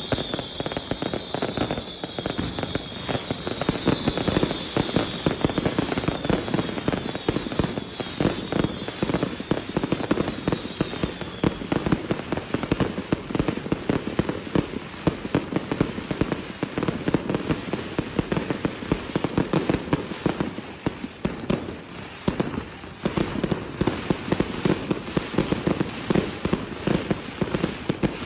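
Daylight fireworks barrage: a dense, continuous crackle of firecrackers and bangs. A high whistling runs over it for the first twelve seconds or so, then fades out.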